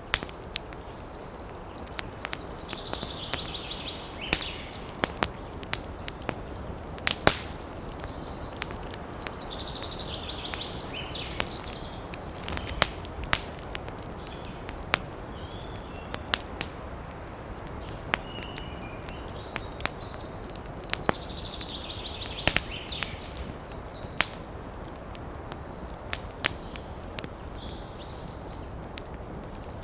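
Wood campfire crackling, with frequent sharp irregular pops over a steady hiss of wind through trees. Brief high bird calls come and go several times.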